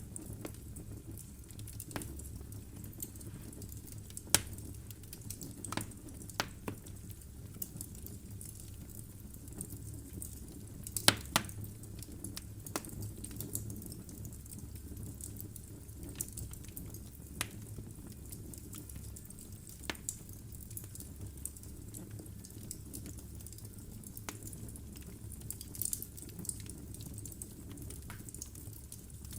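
Wood fire burning in a fireplace: a steady low rumble of flame with irregular sharp crackles and pops from the logs, the loudest pops a little after four seconds and around eleven seconds in.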